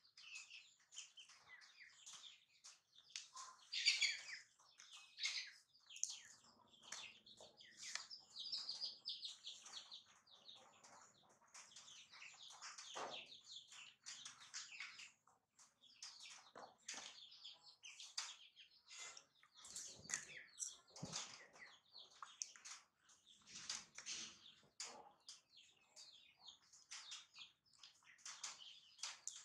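Small birds chirping in quick, high, overlapping calls.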